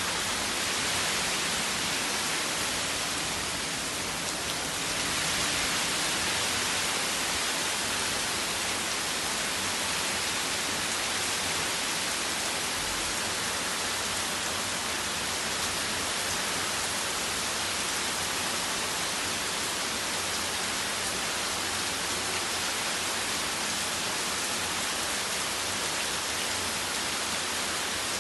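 Heavy rain pouring down, a steady dense hiss that dips a little about four seconds in.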